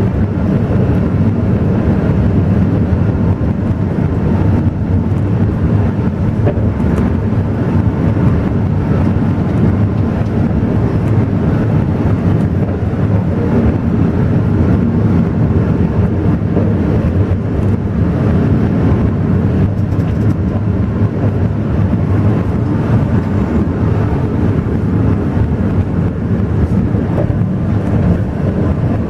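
Alishan Forest Railway train on the move: a steady low rumble of the running train.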